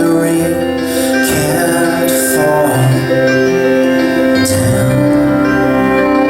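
Live band playing a slow instrumental passage between vocal lines, with sustained chords and a few soft cymbal swells.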